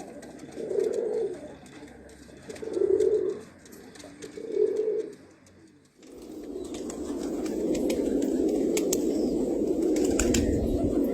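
Pigeons cooing: three single low coos about two seconds apart, then from about six seconds in many birds cooing at once in a continuous chorus.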